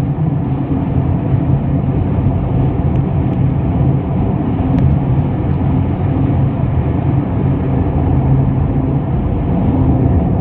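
Car on the move: steady engine hum and road noise with no change in pitch.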